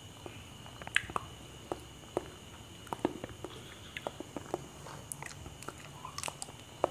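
A person chewing ripe bananas close to the microphone: irregular wet mouth clicks and smacks, with a fresh bite taken near the end. A faint steady high tone runs underneath.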